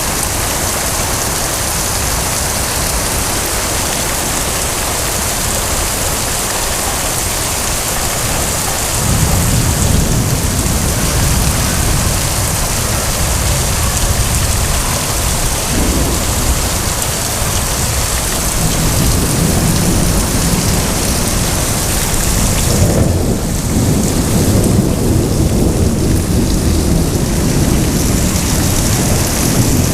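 Heavy rain falling steadily in a thunderstorm, with thunder rumbling low about a third of the way in and again through the last third.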